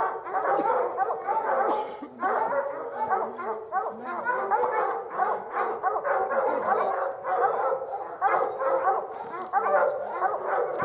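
Several hunting dogs barking and baying without a break, their voices overlapping: tree barking at a treed bear.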